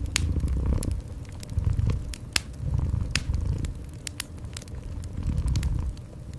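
Cat purring in slow, low swells, with a fireplace fire crackling over it in sharp, scattered pops.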